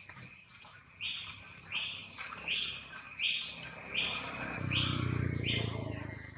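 A bird calling outdoors, one short high note repeated seven times at about one every three-quarters of a second. A low rumbling hum builds up under the last calls and fades away.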